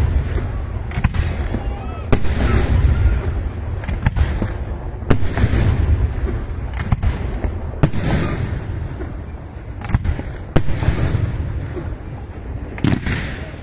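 Fireworks going off, a sharp bang every two to three seconds, each followed by a spell of crackling.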